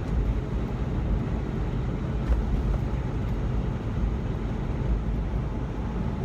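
Steady low engine drone and road noise inside the cab of a moving sleeper-cab semi truck, with one brief knock about two seconds in.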